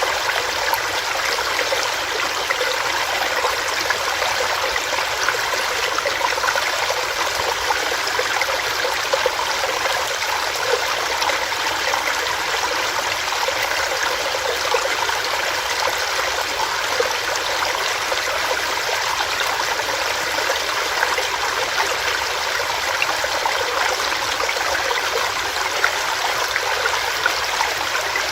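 Small stream of water running over rocks, a steady splashing and gurgling flow with constant small bubbling flickers.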